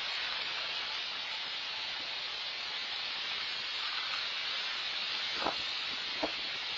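Rain falling steadily on a koi pond, a constant hiss of drops on the water, with two brief plops near the end.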